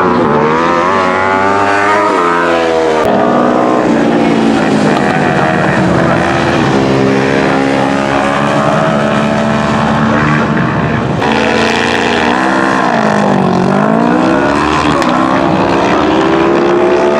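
Several superbike racing motorcycle engines at high revs, their pitch falling and rising as the bikes brake, shift down and accelerate again, with a deep drop and climb in pitch near the end.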